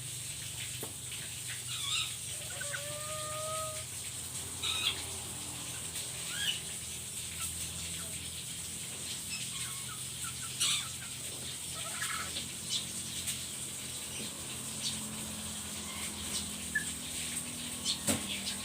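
Black-capped lory (nuri kepala hitam) giving scattered short, sharp calls, with one brief whistled note about two and a half seconds in. A steady low hum runs underneath.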